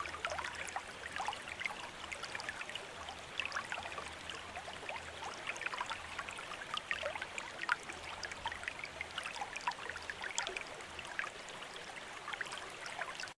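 Bamboo water fountain: water trickling steadily from the spout into the basin, with many small splashes and droplet plinks.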